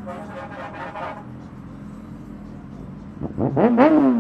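Superbike engine idling low, then revved hard about three seconds in, its pitch climbing in a quick double blip and starting to fall back.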